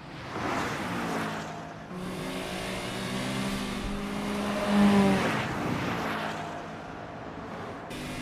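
A sports car's engine running hard at speed, its note rising and falling several times as it accelerates, loudest about five seconds in.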